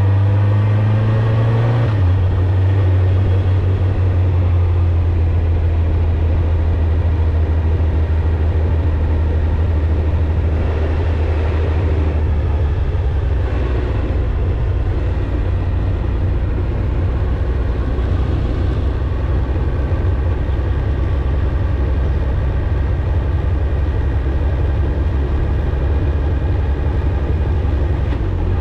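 Suzuki GSX-R1000's inline-four engine and exhaust running under way. The pitch is rising at the start, drops about two seconds in, then holds at a steady cruise.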